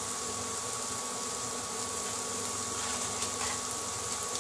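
Onion and spices frying in oil in a pan on an induction cooktop, a steady sizzle over the cooktop's steady electric buzz.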